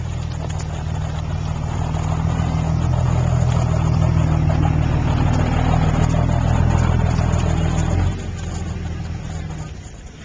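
An engine running steadily, growing louder over several seconds, then dropping sharply about eight seconds in and fading away near the end.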